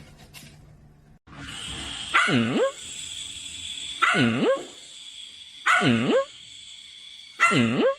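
A dog barking four times, each bark about half a second long and spaced a little under two seconds apart, the pitch of each dipping and then rising.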